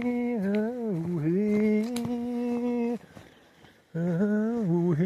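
A person humming a slow wordless tune, with long held notes that dip and rise. One phrase lasts about three seconds, and after a short pause another begins near the end.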